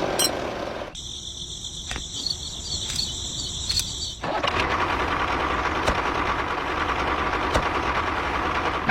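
Small motor of a miniature toy tractor running steadily, broken for about three seconds by a high-pitched chirring whine in place of the running noise.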